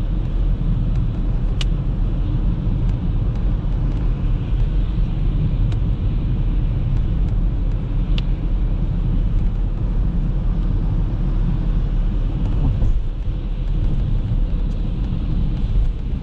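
Audi A3 driving, with a steady low rumble of road and engine noise.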